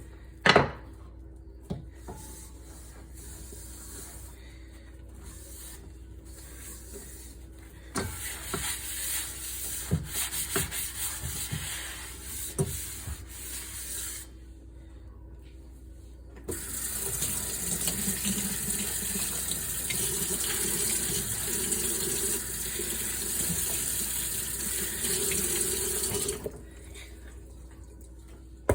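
Kitchen tap running steadily into a sink for about ten seconds in the second half. Before it there are irregular knocks and scrubbing from washing dishes, and a sharp knock about half a second in.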